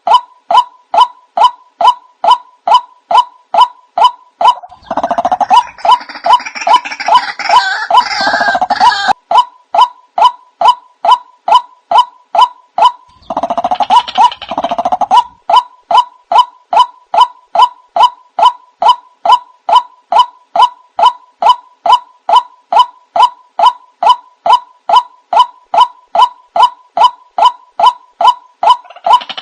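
White-breasted waterhen (ruak-ruak) calls, a short harsh note repeated evenly about two to three times a second, as played for a bird-trapping lure. Twice the calling grows busier and louder with overlapping calls, about five seconds in for several seconds and again around thirteen seconds in.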